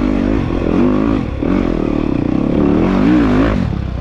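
Dirt bike engine revving up and down under load, its pitch rising and falling about once a second, then dropping away suddenly near the end.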